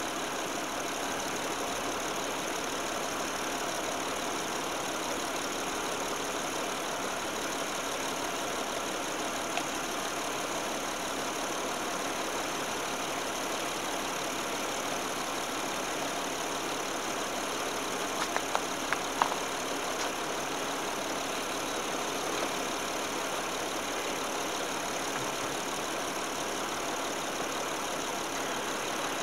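A Saturn Vue's 3.5-litre V6 idling steadily with the hood open, running so the transmission fluid can be checked. A few light clicks of hands and tools in the engine bay come about two-thirds of the way through.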